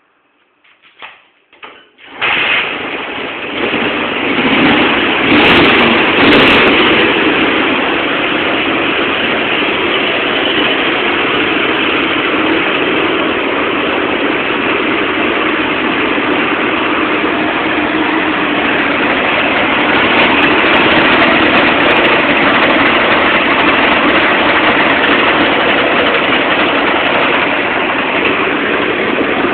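Dnepr K-650 sidecar motorcycle's flat-twin engine being started after standing a year: a few sputters, then it catches about two seconds in, picks up briefly and settles into steady running. It runs on freshly cleaned carburettors that the owner says still need adjusting.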